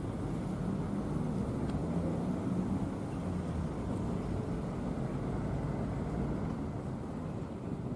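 Diesel locomotive engine running with a steady low rumble, easing off slightly near the end.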